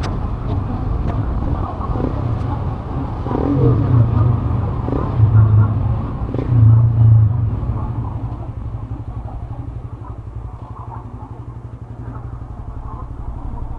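A motor vehicle engine running steadily with a fast, even pulse. It swells louder a few times in the first half, then settles quieter.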